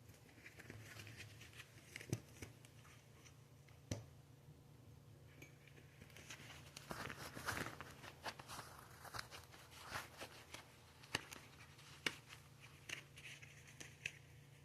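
Faint rustling and crinkling, with scattered light clicks and taps, from hands pulling on gloves.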